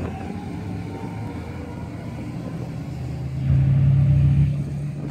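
LS1 V8 in a Nissan 300ZX (Z32) running low and steady, then getting a burst of throttle about three and a half seconds in. It runs louder for about a second before easing back.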